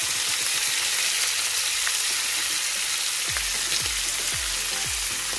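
Liver cubes and sliced onions sizzling steadily as they fry in oil in a nonstick frying pan. From about three seconds in, a low pulse repeats about twice a second under the sizzle.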